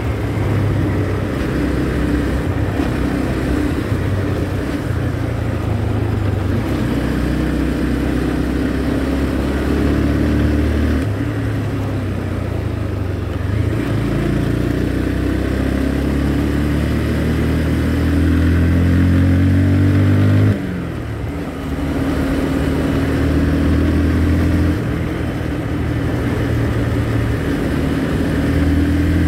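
Motorcycle engine running under way, its revs rising and falling, with a short lift off the throttle about two-thirds of the way through before it pulls again.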